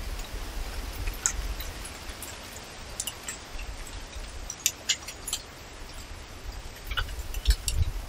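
Forest birds chirping: short, high calls here and there, several in quick succession about halfway through and again near the end, over a low rumble that swells near the end.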